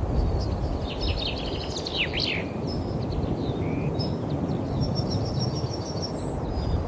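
Songbirds singing and chirping, with a quick burst of chirps and falling notes about one to two seconds in, over a steady low rumble.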